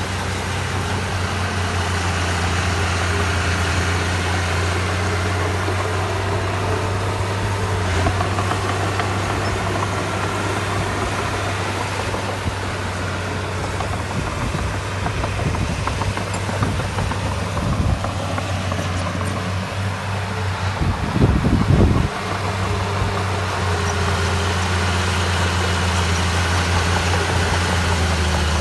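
Diesel engine of heavy construction machinery running steadily, with a brief louder, rougher surge about 21 seconds in.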